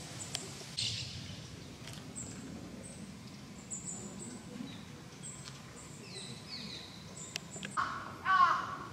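Birds calling in the open air: short high chirps recur throughout, and a louder, stronger call comes near the end, over a faint low background hum.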